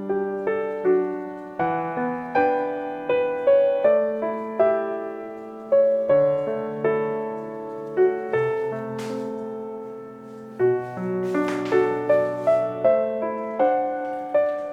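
Background music: a gentle solo piano melody, one note after another, each struck and then fading.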